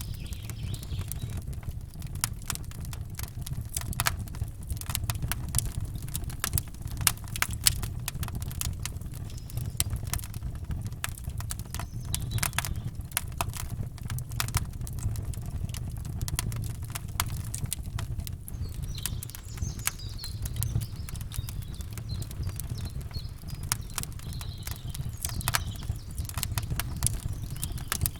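Campfire crackling and popping in quick, irregular snaps over a steady low rumble, with faint bird chirps about two-thirds of the way in.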